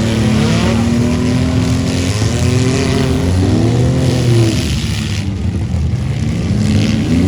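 Several small truck engines running hard at once, one holding a steady pitch for the first couple of seconds, then several revving up and down over one another.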